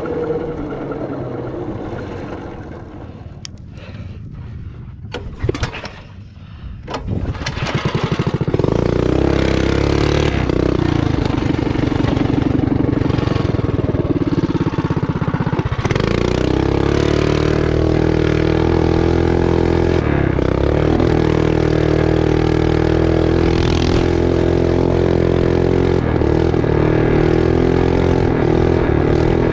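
Mini bike's small single-cylinder engine, low and uneven with a few knocks for the first several seconds, then revving up about seven seconds in and running hard at high revs for the rest, its pitch dipping briefly now and then.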